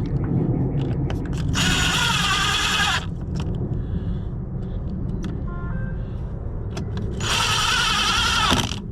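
Power drill driving screws in two runs of about a second and a half each, one about two seconds in and one near the end, with the motor's whine shifting in pitch as the screws tighten.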